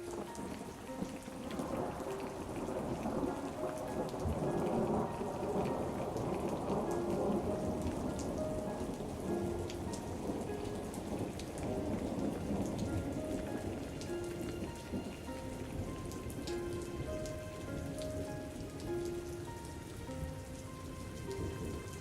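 Steady rain falling, with a long rolling thunder rumble that swells in the first few seconds and dies away about two-thirds of the way through, under a soft, slow melody.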